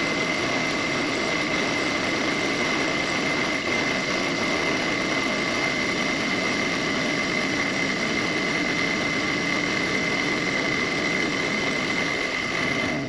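Small benchtop machine tool running steadily with a high, even whine while a chamfer bit cuts along an edge of an aluminum plate. The machine noise drops away suddenly at the very end.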